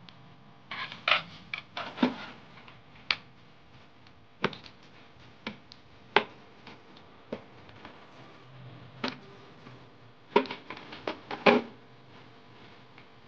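Irregular sharp clicks and taps of small hard objects being handled, with a quick cluster of them near the end.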